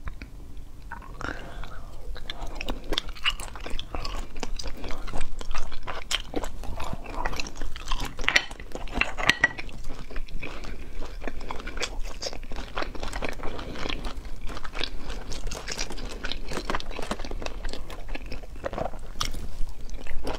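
Close-up mouth sounds of someone chewing and sucking spicy cat's eye sea snail meat: wet, irregular chewing with dense crackling clicks throughout.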